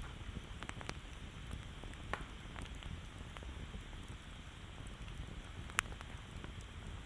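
Campfire crackling, with sharp pops and snaps at irregular moments over a low, steady rumble of burning wood. The loudest pop comes about six seconds in.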